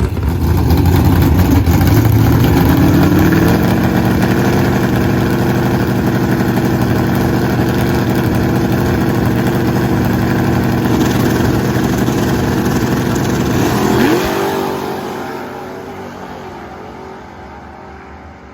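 Drag racing car engine at full throttle making a pass down the strip. Its pitch climbs over the first few seconds, then holds steady; about fourteen seconds in the engine lets off and the sound fades away.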